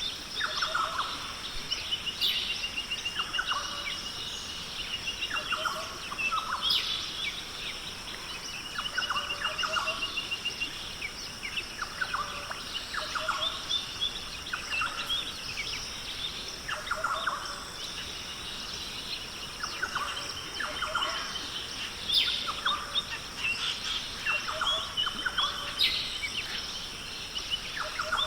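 Australian rainforest ambience: several birds calling over and over, with rapid trilled runs of notes and short falling calls every second or two, over a steady high-pitched hum.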